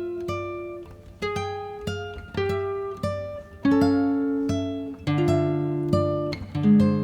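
Background music: an acoustic guitar picking notes and chords, each plucked note fading out, about one to two notes a second.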